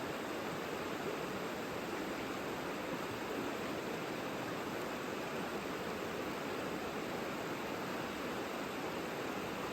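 Savica river flowing: a steady, even rush of water with no single splash standing out.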